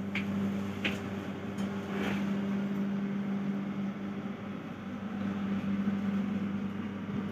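Inside a moving passenger train carriage: a steady low hum over an even rumbling running noise, with a few brief high squeaks in the first two seconds.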